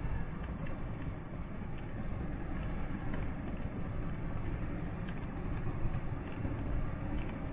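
Vehicle driving in snow: a steady low rumble of engine and road noise with faint scattered ticks.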